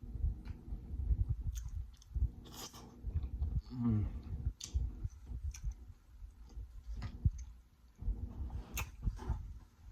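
Close-miked chewing of food, with wet mouth clicks and smacks. A short falling hum comes about four seconds in.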